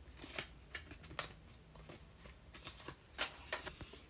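Baseball trading cards being handled, with a few short, irregular clicks and slides of card stock.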